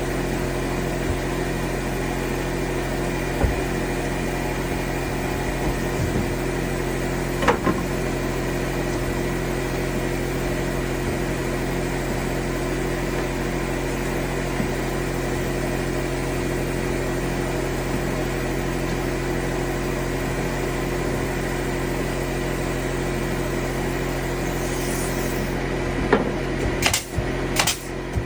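A motor or engine running with a steady, unchanging hum, with a few knocks over it. It stops near the end, giving way to a quick run of sharp clicks and knocks.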